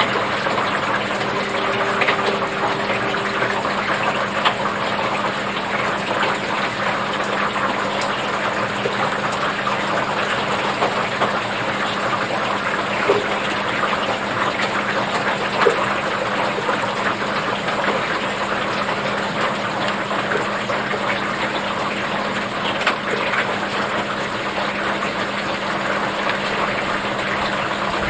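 Steady rain falling on a wooden deck: a dense, even patter of drops with a few slightly louder ticks, over a low steady hum.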